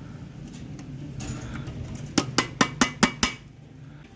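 About seven quick metal-on-metal hammer taps in just over a second, each ringing briefly, seating the new universal joint's bearing cap and retaining clip on a driveshaft yoke.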